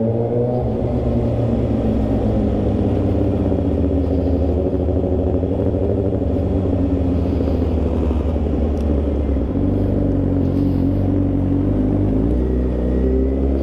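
Motorcycle engine running under way, a steady engine note that climbs in pitch near the end as the bike accelerates.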